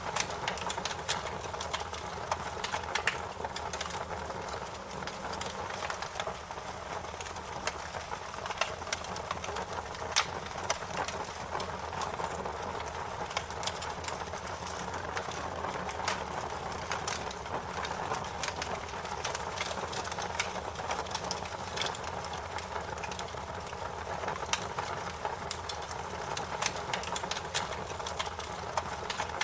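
Wood fire crackling: frequent sharp, irregular pops and snaps over a steady hiss of burning.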